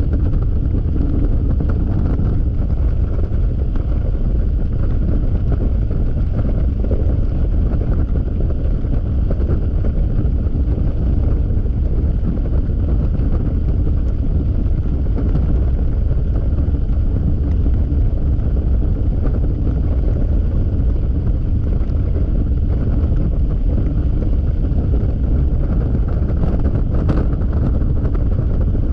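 Steady wind roar on a GoPro's microphone while riding a Yamaha XMAX single-cylinder scooter at speed, with the engine's even drone underneath.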